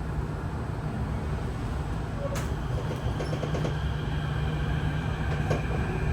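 Kawasaki–CRRC CT251 metro car heard from inside the carriage as the train pulls away. A steady low rumble of wheels and running gear, with a few sharp clicks, and the traction-motor whine starting to rise in pitch near the end.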